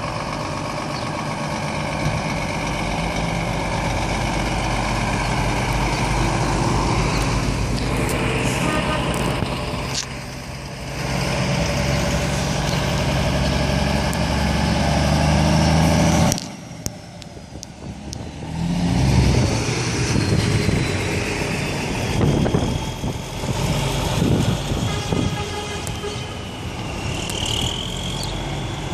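Heavy trucks' diesel engines running and pulling away one after another. The sound drops away suddenly about halfway through, then more truck engine noise follows, with a rising whine near the end.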